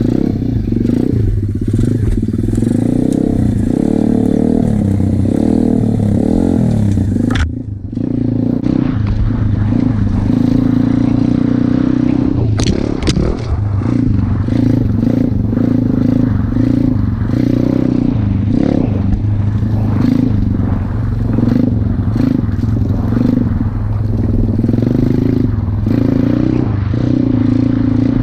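A 125cc four-stroke pit bike engine running, its pitch rising and falling as the throttle is blipped. About seven seconds in the sound breaks off abruptly and resumes as a steadier engine note with small rises and falls.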